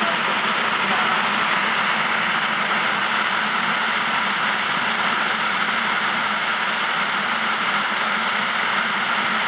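Flash-flood water pouring over a canyon drop and rushing down the wash below: a steady, unbroken rush of water.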